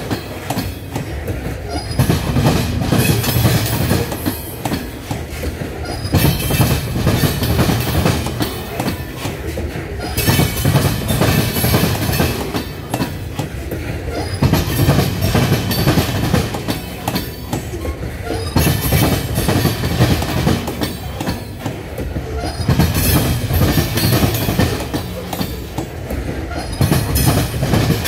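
Steel wheels of a slow-moving loaded coal train clacking over the rails. A cluster of clacks comes about every four seconds as the paired trucks at each car coupling roll past, with a steady rumble of the hopper cars between them.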